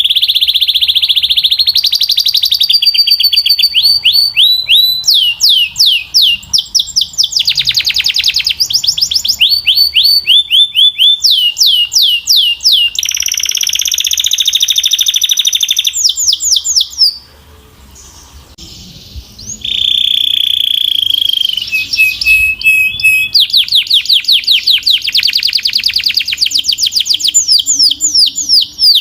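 Belgian canary singing loudly: long held notes alternating with rapid trills of repeated, quickly falling notes, with a short pause about two-thirds of the way through before the song resumes.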